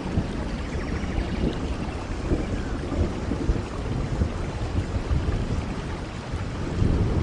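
Rain falling steadily, with low rumbling thunder underneath.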